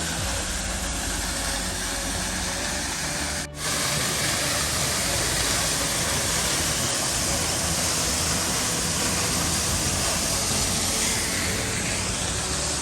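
Waterfall, falling water making a steady rushing noise, broken briefly about three and a half seconds in.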